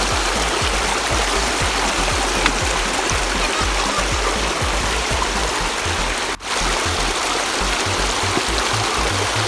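Rushing mountain river water, a loud steady rush, with background music underneath; the sound drops out for an instant about six seconds in.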